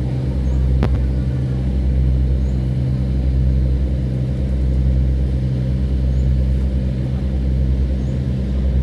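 Towboat's engine running steadily, a deep even drone. A single sharp click about a second in.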